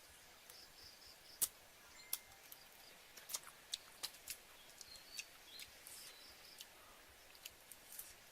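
Faint, irregular sharp clicks and ticks, one or two a second, with a few short high chirps among them.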